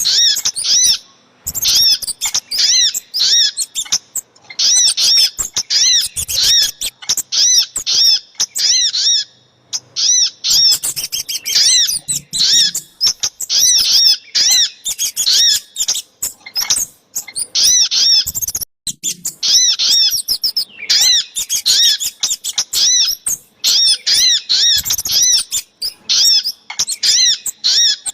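Bird-lure recording of small songbirds, sogok ontong (little spiderhunter) mixed with kemade, calling in rapid runs of high, sharp repeated notes, several a second, broken by short pauses.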